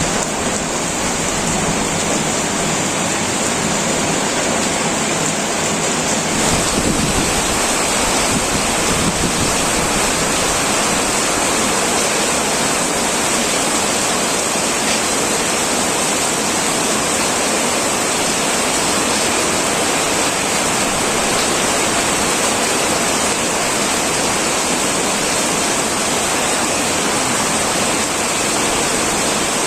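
Heavy rain pouring onto an old tin roof: a dense, steady hiss of drops with no breaks. Its tone shifts slightly about six seconds in, gaining a little more low rumble.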